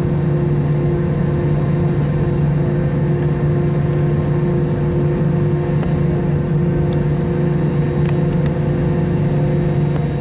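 Steady jet airliner noise from an Airbus A321-200: a constant low hum with several unchanging tones layered over it, with no change in level.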